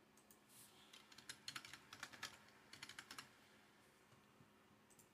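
Faint typing on a computer keyboard: two quick runs of keystrokes between about half a second and three seconds in, then a single click near the end.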